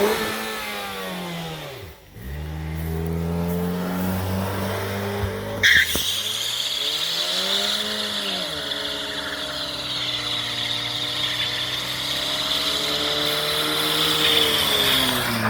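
Derelict Dodge's engine revving up and down hard in a burnout, with the rear tires breaking loose about six seconds in and squealing steadily to the end while the revs keep rising and falling.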